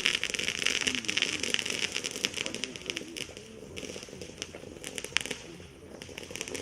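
Crackling from the fountain of a Maxsem SUPRISE MC108 firework battery: dense at first, then thinning to scattered crackles after about two seconds, with one sharper pop a little past the middle.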